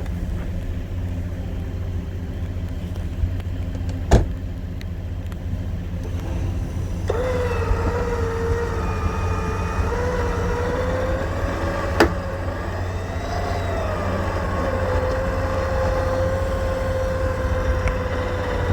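A vehicle engine running steadily under a low rumble. About halfway through, a steady mechanical whine comes in and holds, wavering a little in pitch. Two sharp clicks are heard.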